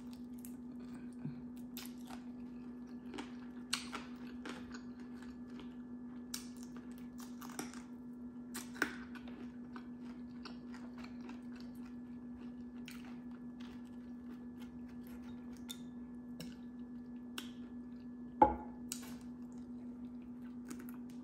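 Close-up chewing of crunchy fried chicken wings, with scattered crisp crackles over a steady low hum. One sharp knock stands out near the end.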